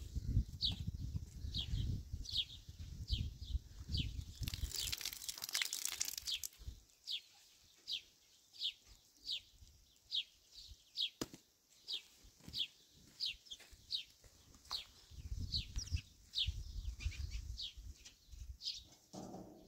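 A bird calling a short, high, falling chirp over and over, roughly every half second. A low rumble comes and goes underneath it.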